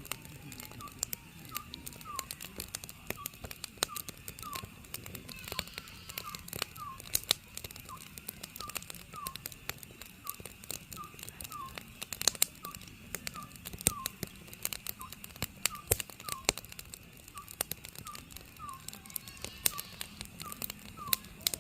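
Oriental scops owl calling, a steady series of short hoots repeated roughly once or twice a second, over a wood fire crackling and popping.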